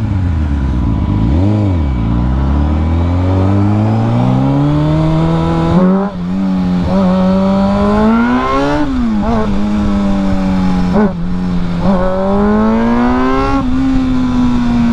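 Small-bore motorcycle engine under way, revving up through the gears. The pitch climbs steadily, drops sharply at a gear change about 6 s in and again near 9 s, then rises once more near the end.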